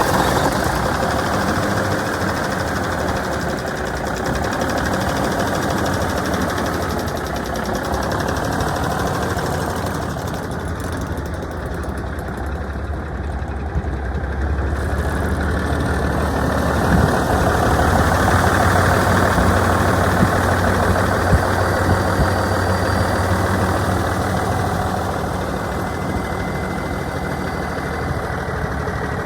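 Diesel engine of a 1986 International 9370 truck tractor running steadily at idle, just after being started.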